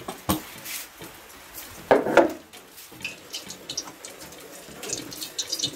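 Rain dripping and pattering, a low steady wash with scattered small drips, and a brief louder noise about two seconds in.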